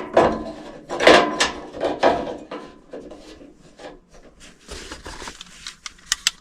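Clattering, knocking and scraping as a replacement run capacitor and its metal mounting clip are handled and fitted in an air handler cabinet, busiest in the first few seconds, then a few lighter clicks with two sharp ones near the end.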